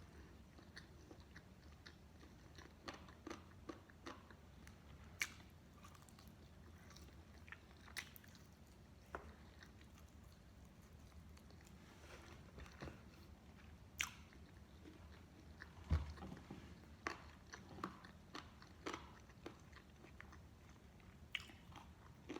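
Close-up eating of fried chicken: crisp coating crunching in bites, with irregular short crackles and smacks of chewing.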